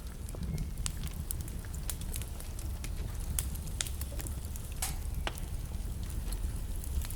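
Wood fire burning in a fireplace: a steady low rumble of the flames with irregular sharp crackles and pops from the burning logs, a few louder snaps scattered through.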